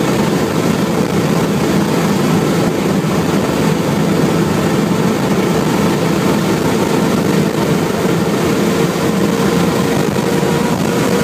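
BMW M3 engine running steadily under load at around 200 km/h, heard from inside the cabin over heavy wind and road noise, with no change in pitch.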